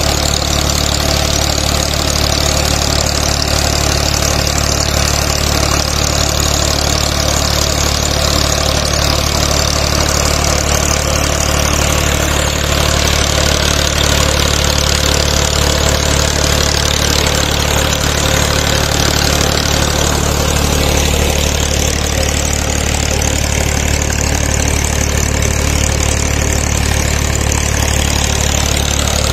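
Tractor diesel engine running steadily, its rear tyre belt-driving a tubewell pump, with a steady rushing noise over the engine.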